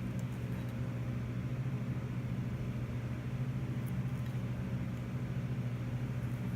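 A steady electric motor drone, a low hum with a slight fast flutter and no change in speed.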